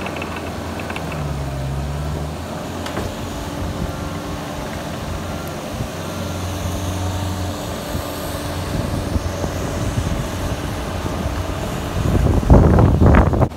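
Bobcat skid-steer loader's engine running while it clears a flooded ditch, its hum rising and falling, with a louder low rumble near the end.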